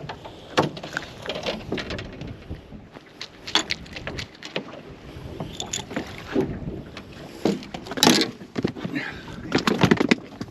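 Wind-driven chop slapping against a small boat's hull, with irregular knocks and thumps: one loudest about eight seconds in and a quick cluster near the end.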